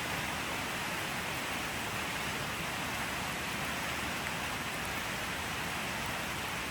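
Steady rainfall, an even hiss of drops on surfaces with faint scattered drip ticks.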